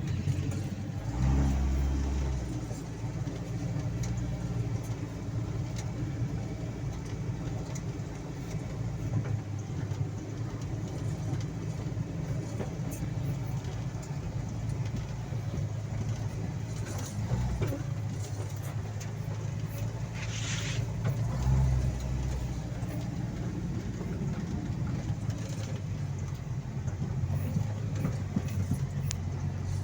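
The all-terrain vehicle's 1NZ-FE 1.5-litre four-cylinder petrol engine runs steadily as it drives over rough ground, with scattered knocks and rattles. A short hiss comes about twenty seconds in.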